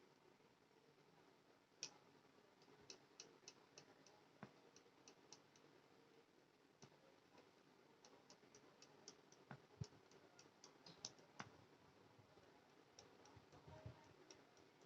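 Faint, irregular light clicks and ticks, a few to several a second in loose clusters, over a near-silent background hiss.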